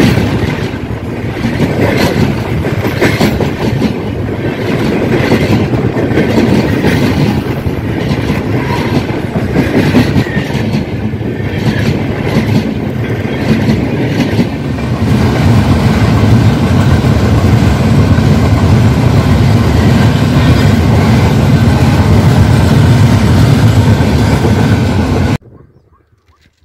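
Express train's passenger coaches passing at speed close beside the track, wheels clattering over the rail joints under a heavy rumble. About halfway through the rumble turns steadier and deeper as the luggage-brake-and-generator car goes by. The sound cuts off abruptly near the end.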